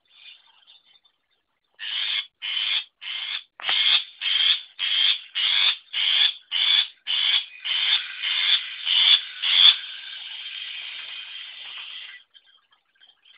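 Long-tailed shrike (burung pentet) calling: a run of about fifteen harsh notes, roughly two a second, then a softer continuous chatter for a couple of seconds before it stops.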